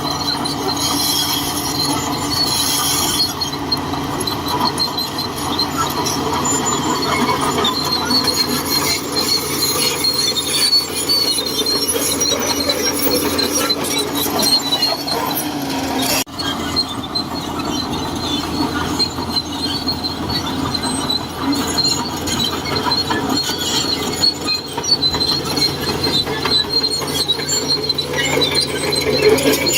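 Shantui DH17C2 crawler bulldozer at work: its diesel engine running steadily under the high-pitched squeal and clatter of its steel tracks, with one sharp click and a brief drop about halfway through.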